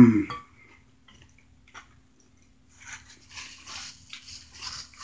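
A brief hum of the voice at the start. In the second half, soft mouth-open chewing of baked Cheetos Mac 'n Cheese bites comes at about three chews a second.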